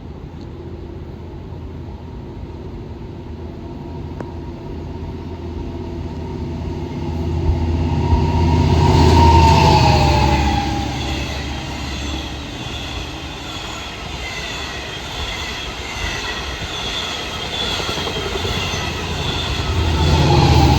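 Long Island Rail Road train passing through the station, growing louder to a peak about nine seconds in. A whine drops in pitch as the front of the train goes by, then the cars roll past with a repeating wheel-and-rail pattern.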